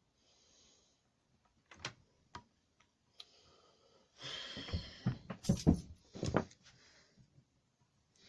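Hand-working noises on a small two-stroke hedge trimmer: a couple of small clicks, then about three seconds of scraping, rustling and a few sharp knocks as a rubber fuel line is pushed onto the carburettor's return pipe.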